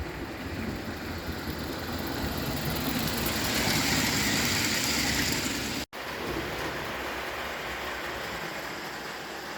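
Vintage Bing tinplate 0 gauge toy steam locomotive running on its track: a steady rattling hiss that swells as it comes closest, about four to six seconds in. The sound cuts out for an instant just before six seconds, then carries on steadier and quieter.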